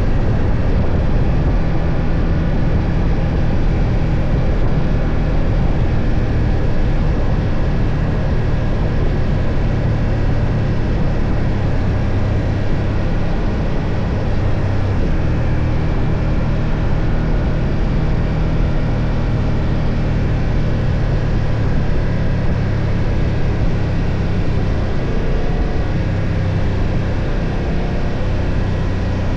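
BMW F 800 GS parallel-twin motorcycle engine running at steady cruising revs while riding, over a steady rush of riding noise.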